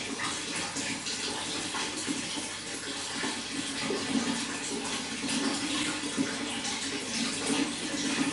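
Running water pouring and splashing steadily, with a continuous rush and small irregular splashes throughout.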